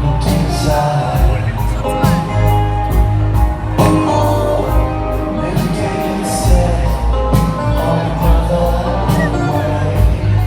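Live band playing a song with a steady drum beat and bass under a male voice singing, recorded amid a concert crowd.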